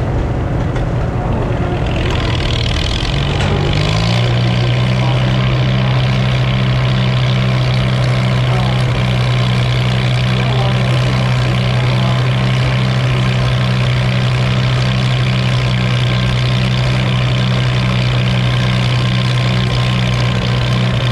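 Antique farm tractor engine running, speeding up about three to four seconds in and then holding steady at higher revs.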